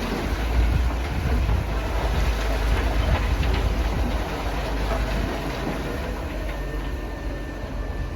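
Railway ambience around a standing steam locomotive: a steady hiss and low rumble, with wind buffeting the microphone.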